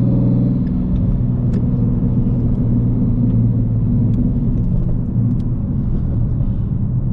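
Ford Mustang's 5.0 V8 engine running steadily under way, a low drone with a slight change in pitch in the first second.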